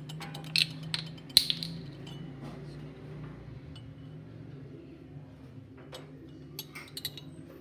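Metal spoon clinking and tapping against a bowl as oyster sauce is spooned in: several sharp clinks in the first second and a half, then scattered lighter taps, over a steady low hum.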